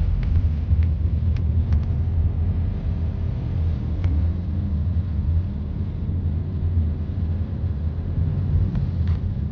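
Steady low rumble of a car driving, with a few faint sharp clicks scattered through it.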